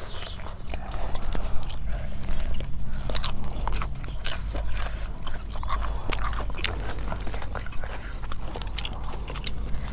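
People chewing and biting food in close-up, with many short, irregular crunches and clicks: eating spicy papaya salad with crunchy blanched squid. A steady low hum sits underneath.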